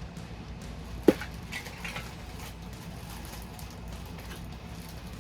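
Handling noise from a Funko Soda can being opened: a single sharp click about a second in, then light rustling. A low steady hum sits under it all.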